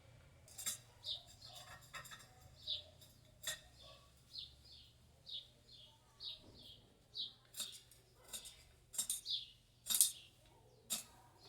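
A small bird chirping over and over in short, falling notes, about two a second, with a few sharp light metal clicks and clinks from small metal rods being handled, the loudest near the end.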